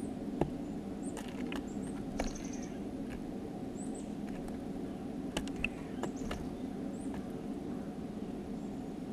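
Small songbirds at a feeder: brief high chirps and short calls scattered through, with sharp clicks and taps from beaks and feet on the feeder, over a steady low hum.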